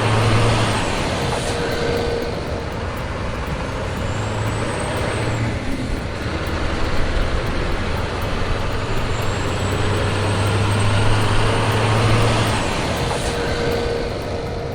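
Heavy-haul truck moving an oversize load: a steady low engine hum over loud road noise, with faint high squeals twice.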